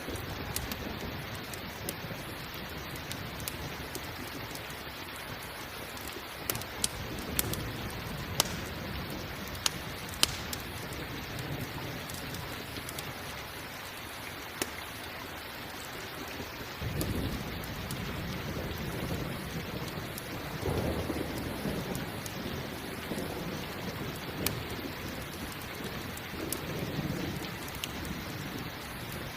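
Steady rain with thunder rolling in about halfway through and rumbling on toward the end. Earlier, several sharp crackling pops from a campfire stand out above the rain.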